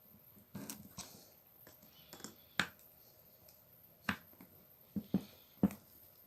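A handful of sharp, irregular clicks and light taps of a hand tool and small metal parts as a screw on an angle grinder is tightened down hard.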